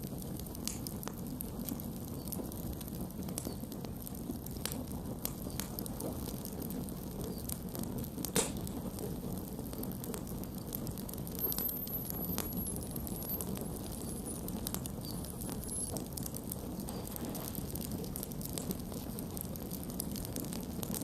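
Campfire burning with irregular crackles and pops over a steady low rumble of flame. One sharper pop comes about eight seconds in.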